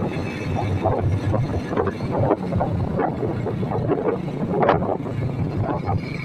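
Motorcycle engine running steadily while riding, a low hum, with wind buffeting the microphone.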